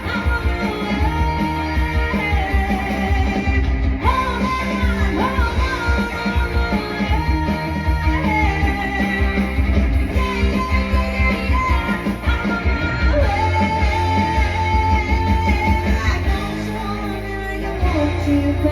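A live band playing a rock-style song: a lead singer holding notes with vibrato over guitar, bass and drums.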